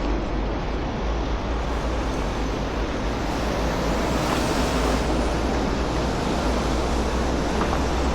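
Steady road traffic on a wide city boulevard: a continuous rush of tyres and engines over a deep rumble, growing a little louder about halfway through as vehicles pass closer.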